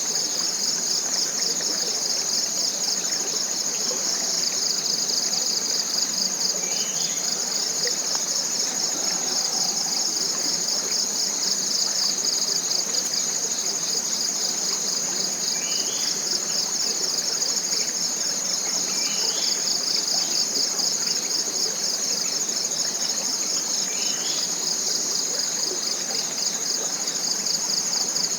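Dense tropical forest insect chorus: a loud, steady, high-pitched buzz with a fast pulsing texture. A short rising call repeats every few seconds over it.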